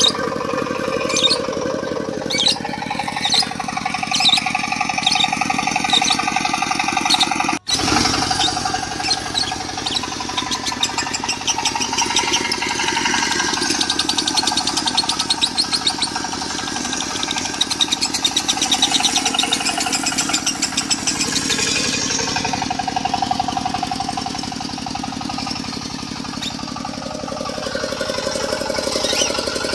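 Lovebird's long, rapid chattering song in the 'konslet' style layered over a steadily running diesel engine. The sound cuts out for an instant about seven and a half seconds in, then carries on.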